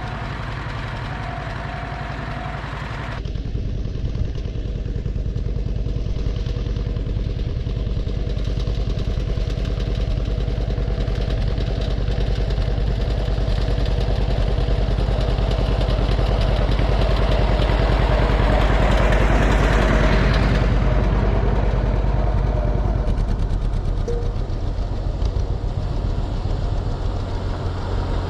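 Vintage farm tractor engine running as the tractor drives along. The sound changes abruptly about three seconds in, and the engine grows louder around the middle before easing off again.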